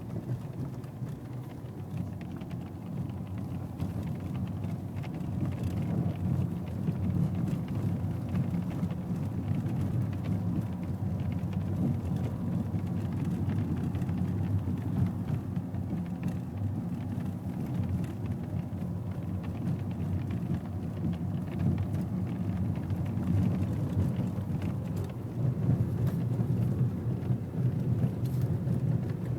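Steady low rumble inside a BMW E90's cabin, with an annoying noise from the right-side window that the owner cannot place. A faint steady high tone runs through the rumble.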